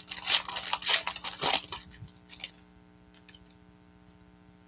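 Trading-card pack wrappers crinkling and tearing as packs are ripped open and handled, stopping after about two and a half seconds. A faint low electrical hum runs underneath.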